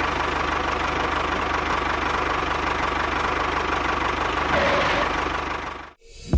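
A small engine idling steadily with a rapid, even beat, stopping abruptly near the end.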